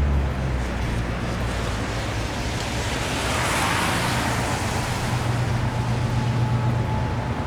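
A car passing on a wet street: the hiss of tyres on wet pavement swells and fades around the middle, over a steady low rumble of engine and traffic.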